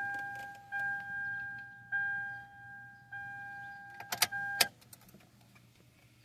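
2010 Toyota Camry's dashboard warning chime sounding over and over, a single steady tone about every second and a bit, each note fading out. It is the reminder the car gives with the key in the ignition and the engine off. A few sharp clicks of the key in the ignition come about four seconds in, the chime stops briefly, then starts again near the end.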